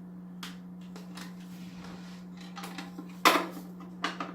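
Plastic parts of a canister aquarium filter being handled and fitted together: a few light clicks, then a sharp plastic knock about three seconds in and another near the end, over a steady low hum.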